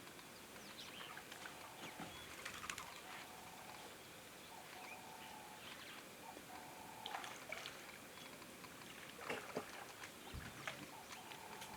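Faint outdoor ambience at a water hole: short repeated calls held at one pitch, scattered small clicks and crackles, and a low background hiss.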